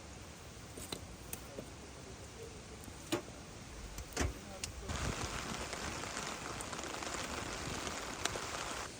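Rain falling on the camp: scattered sharp drips and taps over a low hiss, then a steadier, louder hiss of heavier rain from about halfway that cuts off suddenly near the end.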